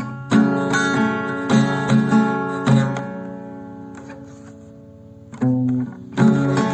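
Acoustic guitar music: chords strummed or plucked about every half second, then one chord left ringing and fading for about two seconds before the playing picks up again near the end.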